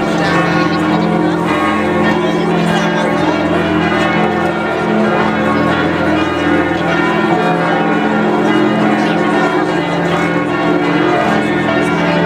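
Notre-Dame de Paris cathedral bells pealing, many bells ringing together in a continuous loud wash with a deep lingering hum.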